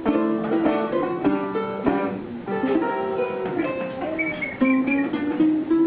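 Ukulele playing an instrumental break: strummed chords for the first couple of seconds, then a picked single-note melody.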